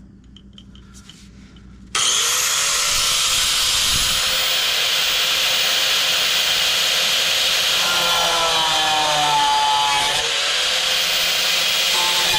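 Angle grinder with a cutoff wheel spinning up suddenly about two seconds in, then cutting steadily through the rusted steel of a truck cab mount. From about eight seconds on its whine shifts in pitch as the wheel bites into the metal.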